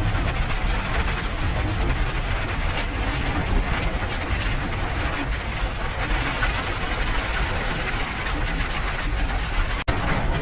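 Steady rain with a low rumble underneath, an even hiss without any rhythm, dropping out for an instant near the end.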